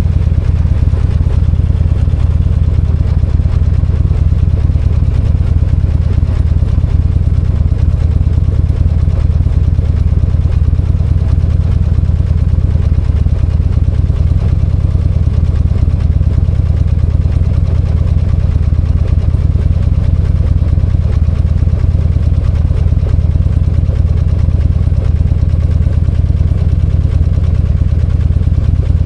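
V-twin motorcycle engine running steadily with an even low pitch, with no revving up or down.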